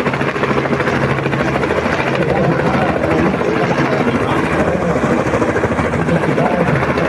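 Helicopter running steadily and loudly nearby, its rotor beating with a fast, even low thump over the engine.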